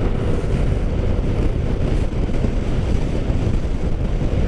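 Wind buffeting the microphone on a moving motorcycle, with the engine and road noise as a steady low rumble underneath.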